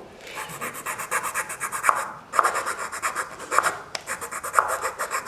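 A square file rasping on wood in quick back-and-forth strokes, in short runs with brief pauses between them.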